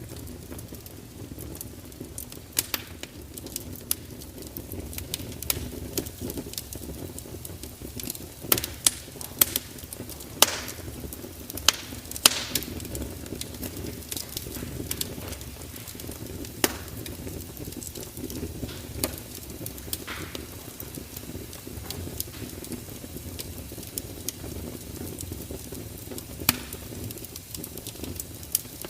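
Wood fire crackling: a steady low hiss and rumble of burning with irregular sharp pops and snaps, a flurry of louder pops about a third of the way in.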